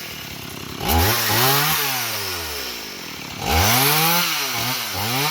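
Chainsaw engine revving up and dropping back twice, about a second in and again about three and a half seconds in, while cutting firewood.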